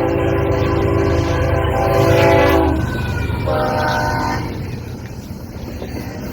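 Locomotive air horn with several notes sounding together. A long blast cuts off about three seconds in, then a shorter blast follows about a second later. A steady low rumble of the passing train runs underneath.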